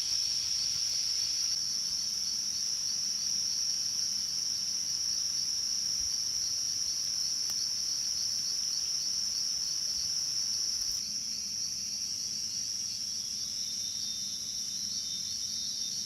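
Insect chorus: a continuous high-pitched trill with a fast pulsing edge, dropping slightly in level about eleven seconds in.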